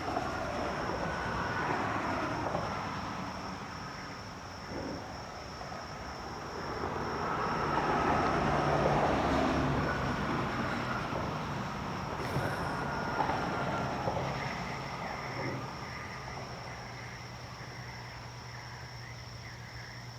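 Road traffic passing, swelling and fading several times, over a steady high-pitched insect trill.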